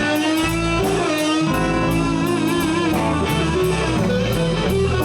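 Live blues band playing: an electric guitar plays a lead fill with wavering, bent notes between the vocal lines, over bass and a drum kit with regular cymbal strokes.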